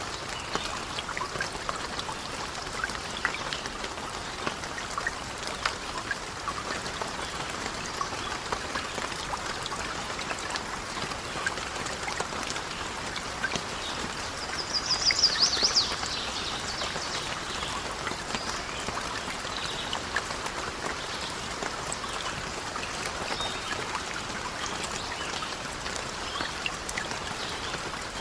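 Steady rain pattering, thick with small drip-like clicks. About halfway through comes a brief run of rapid high-pitched ticks, louder than the rain.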